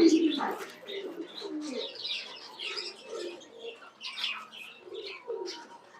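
Several domestic pigeons cooing in a loft, overlapping low coos with a few higher chirps.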